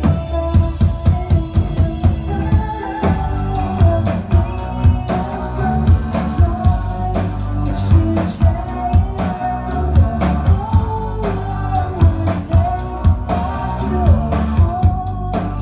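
Indie rock band playing live: a drum kit keeping a steady beat, bass and electric guitars, with a sung vocal melody over them.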